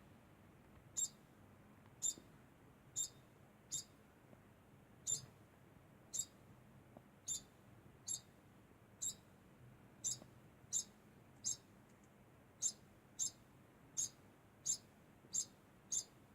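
Degu giving short, high-pitched squeaks over and over, about one a second at slightly uneven spacing.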